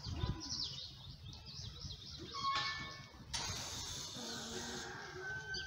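Small birds chirping, with a steady hiss lasting nearly two seconds from about three seconds in.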